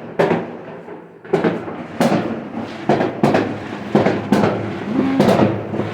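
Fireworks exploding in a rapid, irregular series of bangs, about two a second, each trailing off in an echo.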